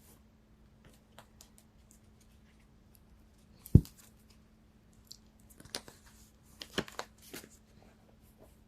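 Cards being handled on a table: one sharp knock about four seconds in, then a few quick snaps and slides of cards shortly after.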